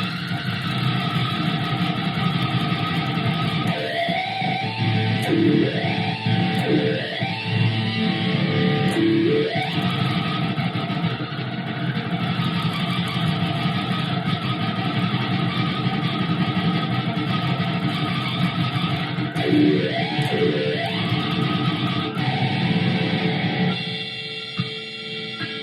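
Electric guitar played through a wah pedal, the pedal rocked so the tone sweeps up and down in repeated swoops, in a cluster about 4 to 10 seconds in and again around 20 seconds. Near the end the playing drops back to a few quieter ringing notes.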